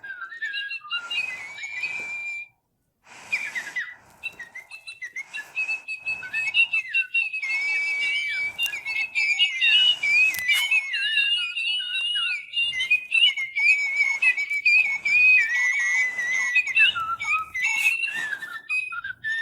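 Little Live Pets electronic toy birds chirping and singing: whistled, warbling notes that glide up and down, in short phrases at first and then almost without a break.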